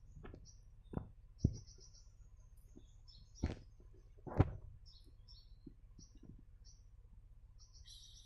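Short, high-pitched sunbird chirps repeating throughout, with a few sharp knocks in between, the loudest about four and a half seconds in.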